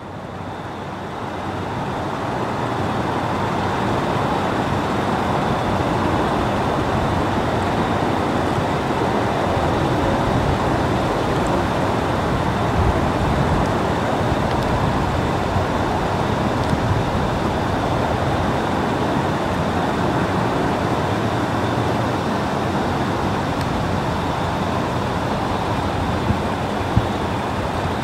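Freight cars rolling past on the rails, a steady rumble of steel wheels on track that swells over the first few seconds and then holds. A couple of sharp clicks come near the end.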